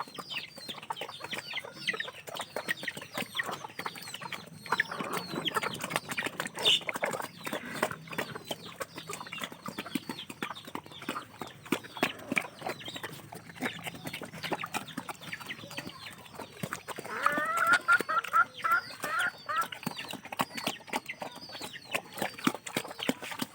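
Chickens: chicks cheeping with short high peeps and a hen clucking, over many small clicks. About seventeen seconds in comes a quick run of louder clucks lasting a couple of seconds.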